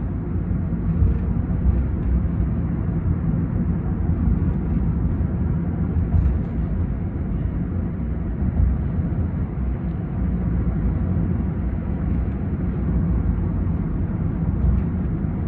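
Steady low road and engine rumble heard inside a moving car's cabin, with a few faint small knocks.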